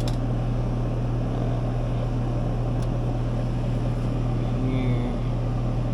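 Steady low drone and hum of running air-conditioning condenser units, with a single sharp click about three seconds in.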